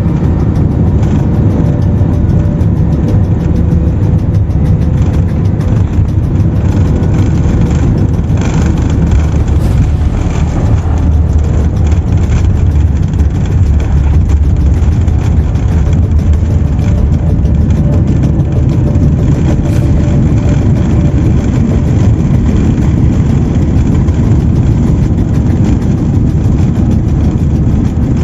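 Loud, steady low rumble of an airliner's jet engines and airflow heard from inside the passenger cabin during landing.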